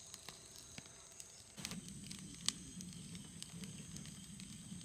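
Firewood burning in a camp fire pit, crackling with scattered faint pops and one sharper snap about two and a half seconds in. A faint low murmur runs under it from about a second and a half in.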